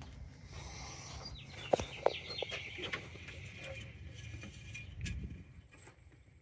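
Birds chirping in the background, with a few sharp clicks and knocks, the loudest pair about two seconds in.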